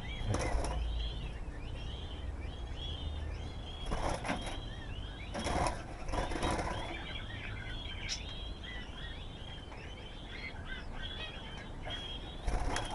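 A flock of budgerigars chattering: a steady stream of short, warbling chirps. A few brief flurries of wing flapping break in about half a second in, around four seconds in, and twice more around six seconds in.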